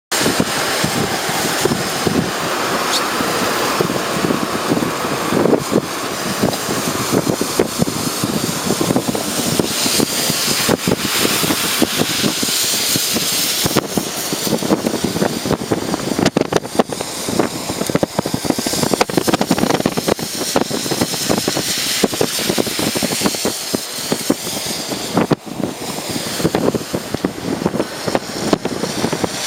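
Typhoon wind gusting and buffeting the microphone: a loud, continuous rushing noise with crackling throughout and surges in strength.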